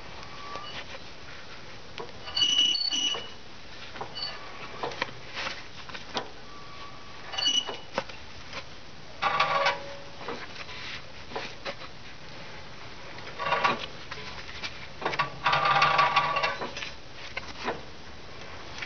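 The 2001 Nissan Maxima's jacked-up front passenger-side wheel and axle being spun by hand in neutral, giving irregular squeaks and squeals, some short and some held for a second or so. The owner takes the noise for the inner CV joint or axle rather than the wheel bearing.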